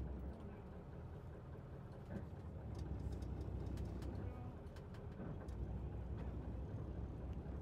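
Steady low rumble aboard a small fishing boat, swelling and easing, with a few faint clicks partway through.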